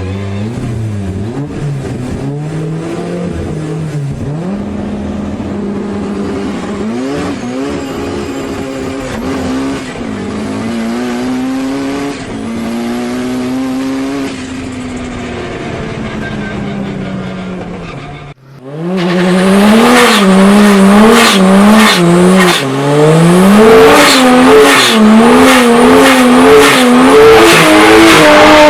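Turbocharged Nissan Silvia engine revving, its pitch rising and falling again and again. About eighteen seconds in it cuts abruptly to a louder Silvia revving hard, its pitch swinging quickly up and down, with many sharp cracks over it.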